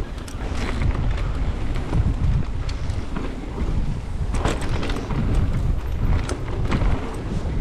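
Wind buffeting the microphone while a mountain bike rides fast over rough trail, with sharp rattles and knocks from the bike now and then.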